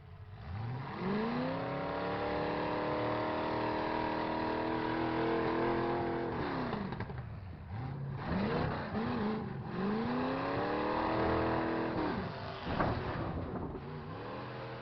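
Demolition-derby truck engine revving hard, held at high revs for several seconds, dropping, then revving up again and holding. A sharp bang comes near the end.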